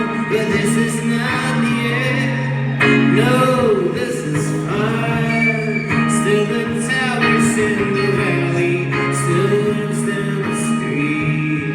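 Live acoustic folk song: a man's voice singing a drawn-out, sliding melody over steady sustained chords.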